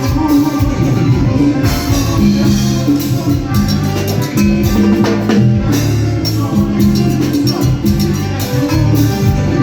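Live band playing Latin dance music, with bass notes and a steady drum beat, picked up by a microphone in the room.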